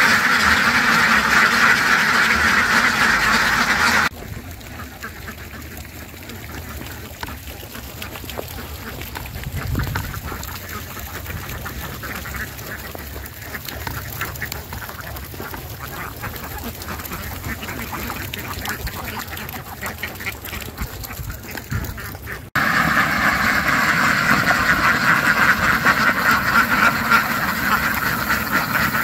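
Flock of domestic ducks quacking in a dense, overlapping chorus; it cuts abruptly to a quieter stretch of scattered sounds about four seconds in, and the loud chorus returns just as suddenly about twenty-two seconds in.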